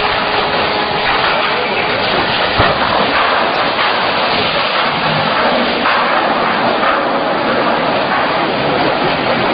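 Loud, steady rush of churning water, the wash thrown up as a large ship slides down the slipway into the water, with a brief knock about two and a half seconds in.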